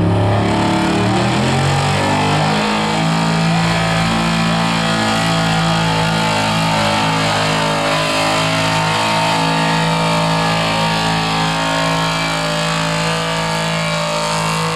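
Pulling vehicle's engine coming off high revs, its pitch falling over the first couple of seconds, then running steadily at a lower speed after the pull stalls out on the sled.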